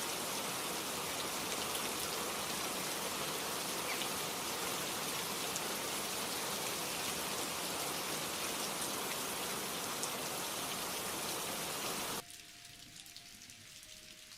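Steady rain, a dense even hiss with scattered sharper raindrop ticks. About twelve seconds in it cuts off abruptly, leaving a much fainter hiss with a few faint short tones.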